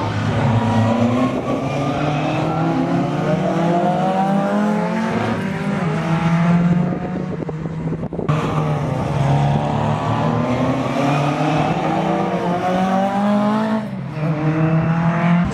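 Car engine pulling hard under acceleration, its pitch climbing steadily for several seconds. It drops abruptly about eight seconds in, like a gear change, then climbs again, with another drop near the end.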